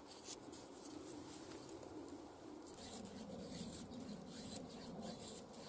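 Faint scraping of a Scandi-grind knife shaving curls off a feather stick, with a pigeon cooing in the background from about halfway.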